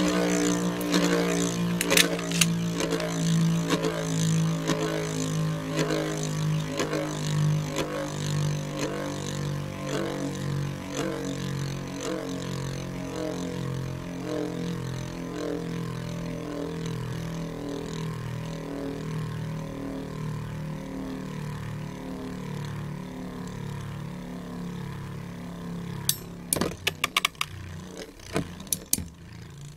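Beyblade spinning tops whirring against each other in a plastic stadium, a steady hum that slowly drops in pitch and fades as they lose speed. Near the end comes a run of sharp clacks.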